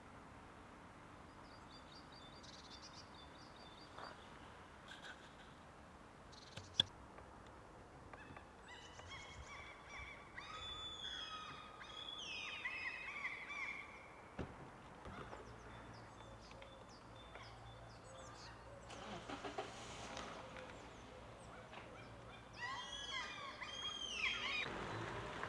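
Birds calling in bursts of short bending notes, a cluster about a third of the way in and another near the end. A single sharp click comes about a quarter of the way in, and a faint steady low hum runs through the later part.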